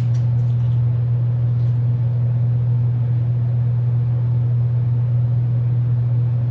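Steady low hum, with a few faint clicks about a second in.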